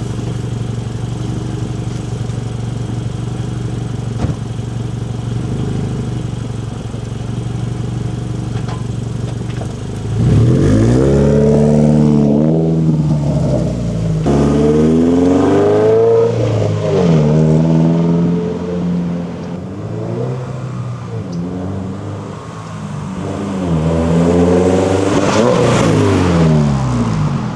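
Subaru BRZ's flat-four engine through an AWE Touring cat-back exhaust, idling steadily, then revved several times from about ten seconds in, each rev climbing in pitch and falling back to idle.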